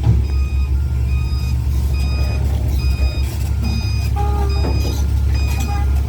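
Dump truck's reversing alarm beeping at an even pace, a little more than once a second, over the steady low rumble of its diesel engine as it backs up.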